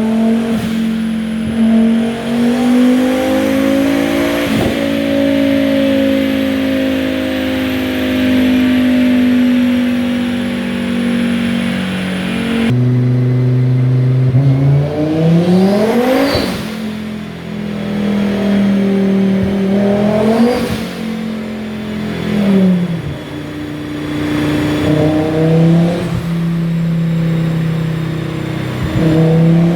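Turbocharged Volvo B5244S five-cylinder engine in a BMW E36 running on a dyno. It holds a long note that eases slowly down in pitch, then after an abrupt change revs up quickly and drops back, followed by several shorter revs.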